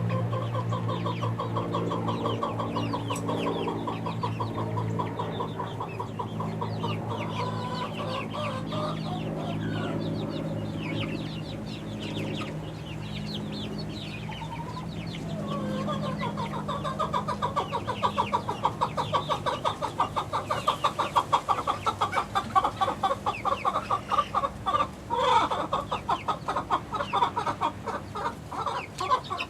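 A flock of six-week-old chickens cheeping and clucking, their calls rising into a louder, rapid trilling chatter in the second half. A low steady hum runs underneath during the first half.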